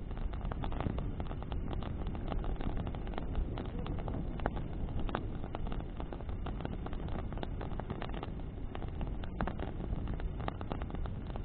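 Bonfire of branches burning in the wind: a steady low rush of flame and wind, with many quick crackles and pops from the burning wood throughout.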